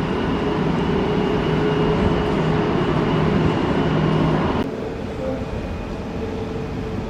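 Jet airliner engines running with a steady rumble and a thin whine. The sound drops abruptly about four and a half seconds in, then carries on quieter and duller.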